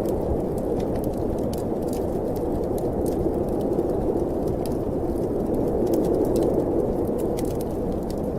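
Snowstorm wind blowing steadily, a dense low rushing noise, with the sparse sharp crackles of a wood fire burning in a fireplace.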